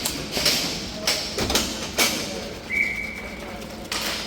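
Ball hockey sticks and ball knocking on the rink floor and boards: a series of sharp clacks and thuds, with a brief high squeak about two thirds of the way through.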